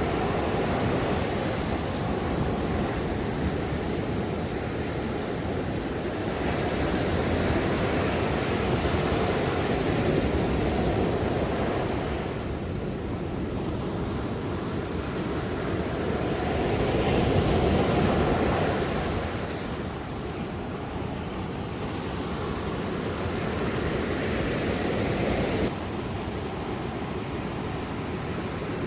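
Ocean waves breaking and washing on a shore in a steady rushing noise, swelling and easing every several seconds, with one wash dropping off abruptly near the end.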